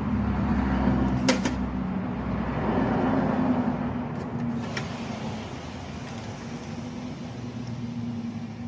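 A steady low mechanical hum, with a sharp click about a second in and a fainter one near five seconds.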